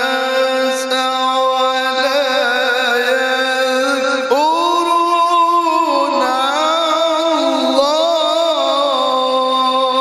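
Male qari's voice chanting Quran recitation in the long, ornamented tilawah style, holding a steady note and then swooping up into a new wavering phrase about four seconds in.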